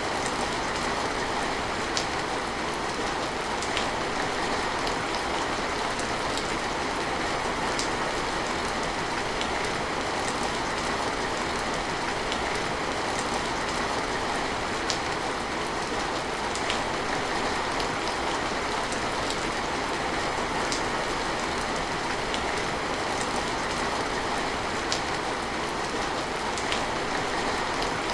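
Steady rain falling, an even hiss with occasional sharper drops ticking on hard surfaces.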